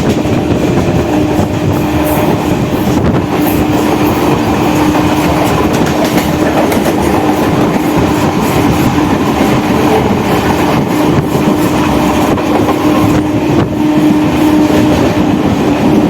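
Electric local train (EMU) running at speed, heard on board: steady loud rumble and clatter of wheels on the rails, with a steady hum running underneath.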